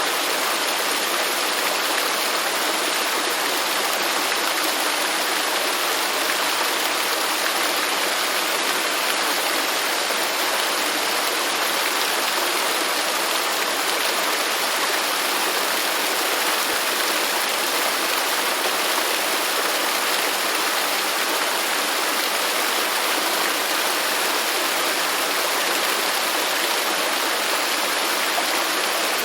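Waterfall: falling water rushing steadily, an even hiss with little low rumble.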